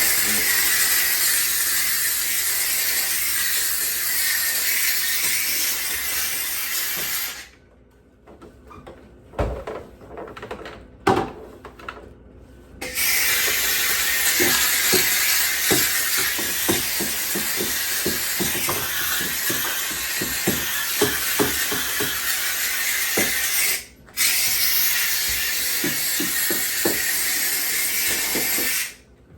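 McCulloch steam cleaner hissing as it jets steam, in three bursts: about seven seconds, then after a pause of about five seconds broken by a few knocks, about eleven seconds, a brief break, and about five seconds more. Quick light clicks and knocks run under the second and third bursts.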